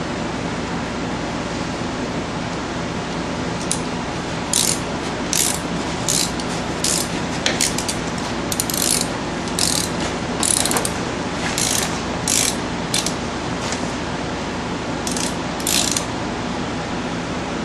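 Hand ratchet clicking in about a dozen short bursts as it is swung back and forth, tightening a bolt on a brake caliper. The clicking starts about four seconds in, over a steady hum.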